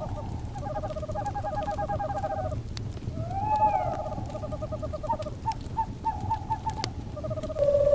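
Owls calling in quick trills, with one rising-and-falling call midway, over a crackling fire with scattered sharp pops. A steady held tone comes in near the end.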